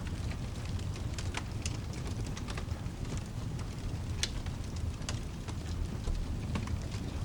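Rain falling steadily over a low continuous rumble, with a wood fire crackling in scattered sharp pops, the loudest about four seconds in.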